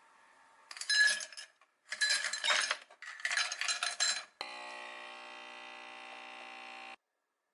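Three short bursts of clinking and rattling from small hard objects being handled, then a steady multi-toned hum that stops abruptly near the end.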